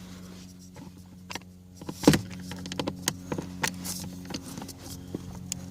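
Irregular clicks and clatter of hand tools being handled while getting at the Phillips screws of the blower resistor under a car's glove box, the loudest click about two seconds in, over a steady low hum.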